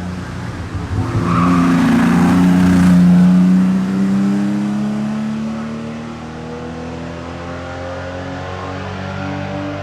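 1974 Porsche 911 Carrera RS 3.0's air-cooled flat-six accelerating in one long pull, its pitch climbing steadily. It is loudest about three seconds in as the car goes by, then fades as it draws away.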